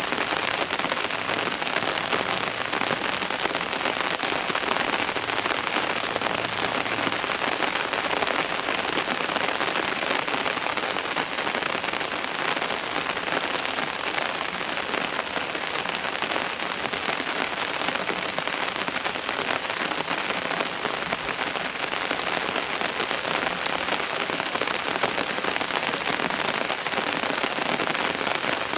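Steady rain falling and pattering on surfaces, an even dense hiss with no letup.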